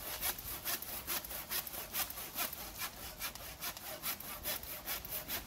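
A hand saw cutting through dry, dead fallen wood in quick, regular back-and-forth strokes.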